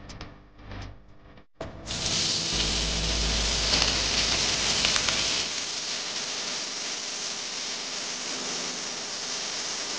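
Cubed potatoes sizzling in hot oil in a pot. The sizzle starts about two seconds in, after a few faint clicks, is loudest for the next few seconds, then settles into a steadier hiss.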